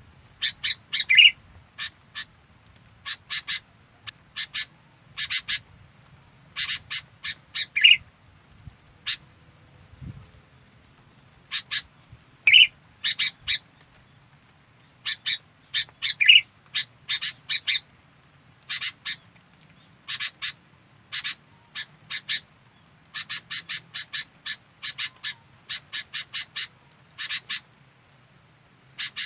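Sooty-headed bulbul (kutilang) calling in quick bursts of short, bright notes, a burst every second or two. Some bursts end on a louder, lower note.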